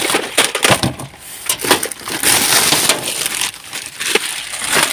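Rubbish being rummaged through in a dumpster: a string of knocks, clatters and crunching as items are shifted and handled, with a longer rustling, crunching stretch about halfway through.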